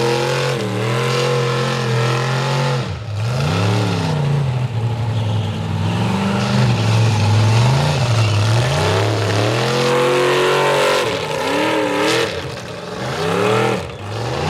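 Big mega truck engine revving hard in the mud bog, the pitch climbing and falling again and again, with sharp drops about three seconds in and twice near the end.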